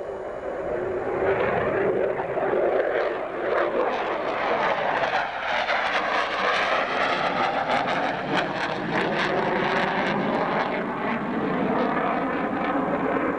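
Fighter jet's engines at full power as it flies past near the base, the noise building over the first second or two and then staying loud.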